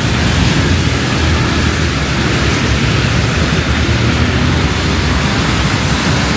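Heavy rain falling in a steady hiss, with a low rumble of city traffic underneath.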